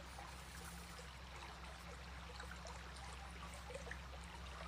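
Gentle flowing stream, water trickling and babbling steadily, over a steady low hum.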